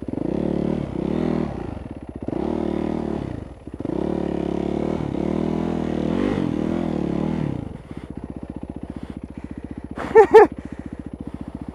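Motorcycle engine revved in several bursts, then settling to a steady idle about eight seconds in. Two short, sharp sounds near the end.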